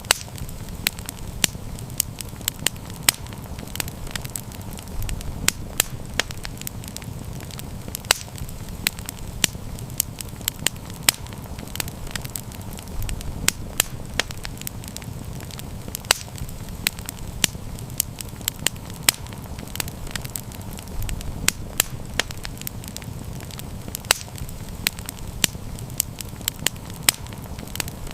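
Campfire burning, with frequent sharp crackles and pops from the burning wood over a steady low rumble of the flames.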